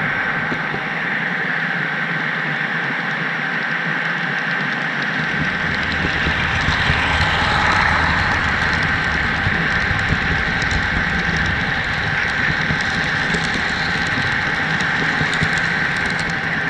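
HO-scale model train rolling along the track, picked up by a camera riding on the caboose: a steady hiss of wheels on rail with a thin high whine and scattered small clicks, and a low rumble that joins about five seconds in.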